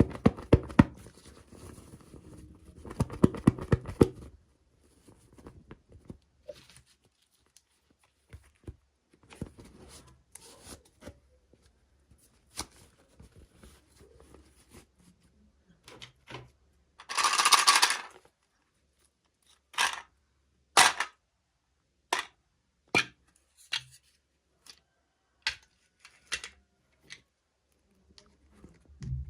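Toy packaging being opened by hand: crinkling and rustling for the first few seconds, then a one-second tearing sound in the middle. After that comes a series of short sharp clicks and snaps, about one a second.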